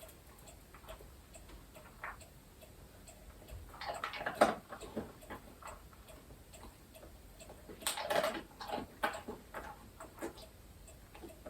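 Small dog chewing and crunching treats: scattered irregular clicks, with louder bursts of crunching about four and eight seconds in.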